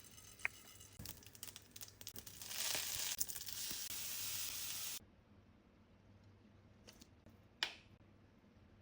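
Hot oil sizzling and crackling in a pan, growing louder over about five seconds, then cut off abruptly. A single sharp knock follows a couple of seconds later.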